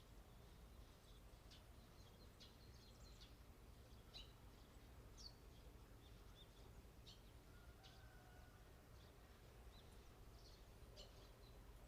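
Small birds chirping faintly outdoors: short, high, scattered chirps, one or two a second at irregular intervals, over a low steady hum.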